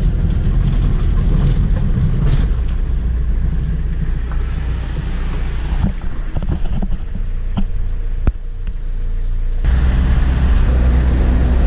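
Road and engine noise inside a moving car, a steady low rumble that grows louder near the end, with a few faint clicks partway through.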